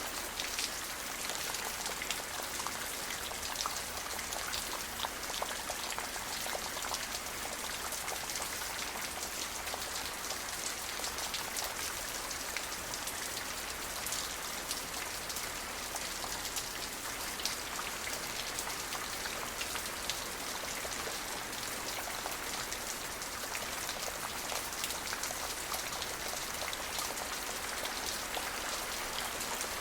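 Steady rain falling, a dense patter of many small drop ticks over an even hiss, with no thunder.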